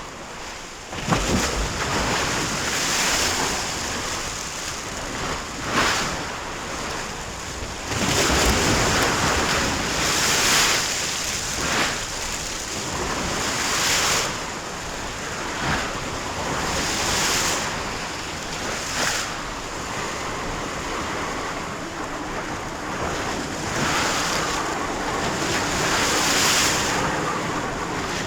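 Sea waves surging and breaking in irregular swells every few seconds, with wind. There is a sharp crash about a second in and a bigger surge around eight seconds.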